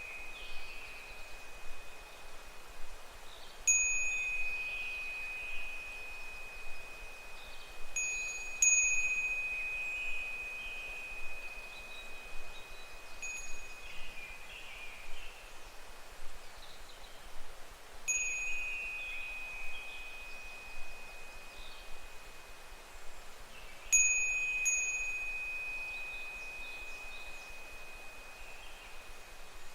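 Japanese furin wind chime swinging in the breeze, its clapper striking the bell about seven times at uneven intervals of a few seconds, sometimes twice in quick succession. Each strike leaves a clear, high ringing tone that dies away slowly.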